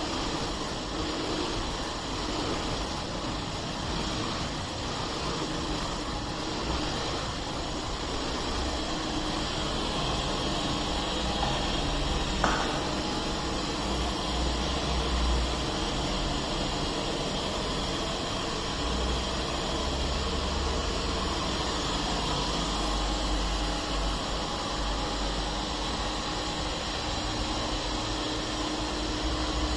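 Puppyoo R6 robot vacuum running, its suction fan and brushes making a steady mechanical hiss, with one short click about twelve seconds in.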